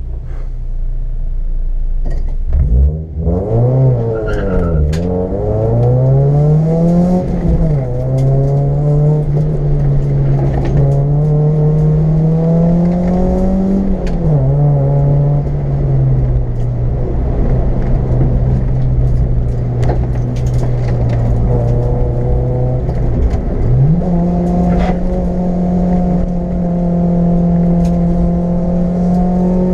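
Car engine heard from inside the cabin during a hill climb run, pulling hard. The revs climb from the start and drop sharply at gear changes about 7 and 14 seconds in, then hold steady. They jump up again about 24 seconds in.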